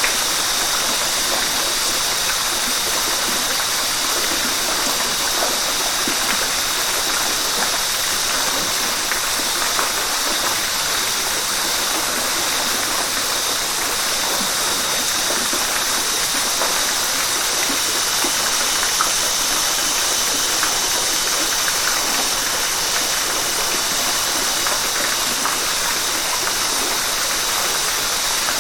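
River water rushing steadily, a constant, even hiss of flowing and splashing water, brightest in its upper range.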